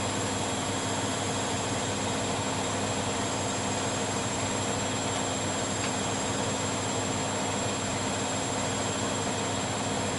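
Bosch Maxx Special WFL 248Y front-loading washing machine running steadily: a constant rush and hum with a few unchanging tones, one of them high-pitched, and no rise or fall in pitch.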